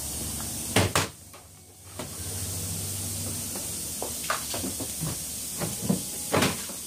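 Scattered knocks and clatters from parts of a twin-tub washing machine being handled during disassembly, over a steady background hiss. The sound drops out briefly about a second in.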